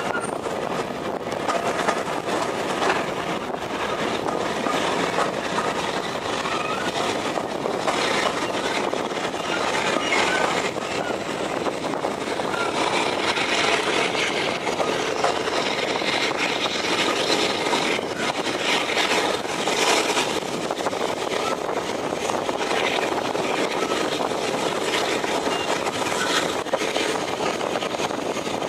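A heritage railway train running on the line: steady loud running noise with many short clicks and knocks throughout.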